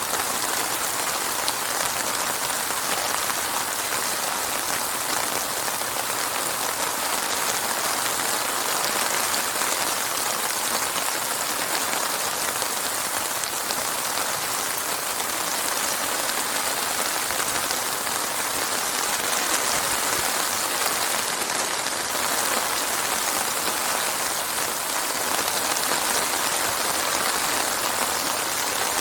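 Steady heavy rain falling on a surface, a dense even hiss of drops with no thunder.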